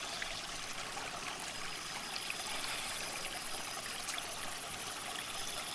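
Water in an open aquarium trickling and splashing steadily, with faint light ticks scattered through it.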